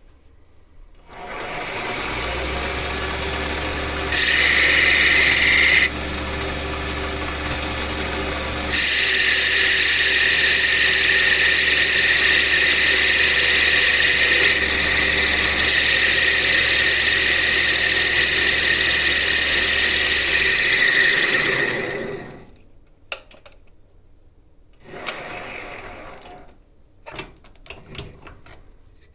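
A power tool's motor running steadily for about twenty seconds, with a louder, higher hissing grind in two stretches where it bites into the work, then spinning down and stopping.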